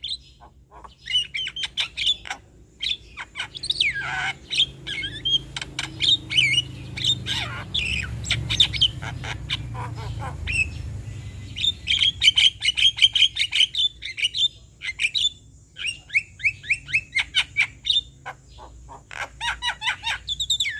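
Male Javan myna (jalak kebo) singing and chattering: a varied, unbroken run of harsh squawks, short whistles and fast trains of clicking notes.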